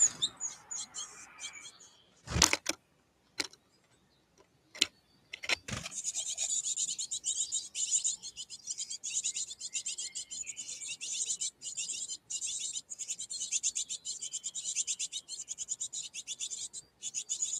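A few sharp clicks or knocks, then a long run of rapid, high-pitched bird chirping or chattering from about six seconds in, broken now and then by brief gaps.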